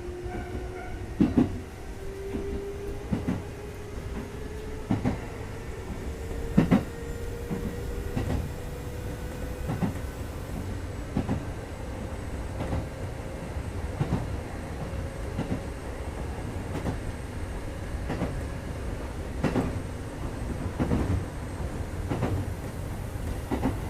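Kintetsu 2430 series electric train running, heard from inside the car: a low rumble with a hum that rises slowly in pitch as it gathers speed over the first two-thirds, and rail-joint clacks every second or two.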